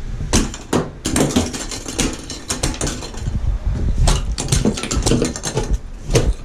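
Plastic tile leveling clips being kicked so they snap off at the tile joints: an irregular run of sharp snaps and clicks with low knocks against the tile floor.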